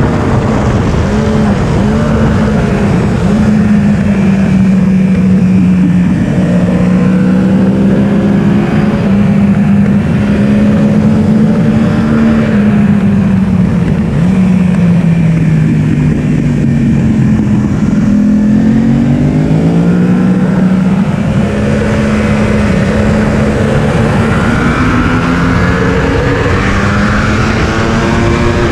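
Yamaha R1's inline-four engine running hard at high revs on track. The engine pitch holds high, falls twice, around halfway and about two-thirds through, as the bike slows and shifts down, then climbs again under acceleration.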